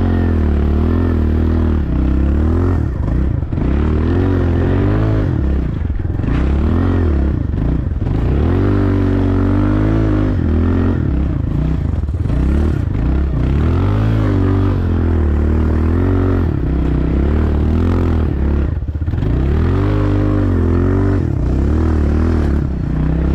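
Small dirt bike engine being ridden hard, revving up and falling back again and again every second or two, with some clatter.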